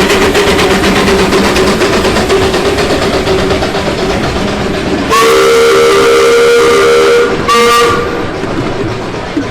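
Theme-park train running on its track while its whistle blows one long blast about five seconds in, then a short second blast.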